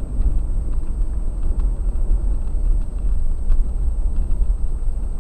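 Steady low rumble of a moving car's road and engine noise, as picked up by a dashcam mic inside the car.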